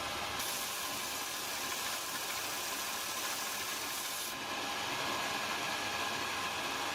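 Steady abrasive rubbing from a power tool running against the knife, with a faint motor hum. The hiss turns brighter and sharper from about half a second in until about four seconds in.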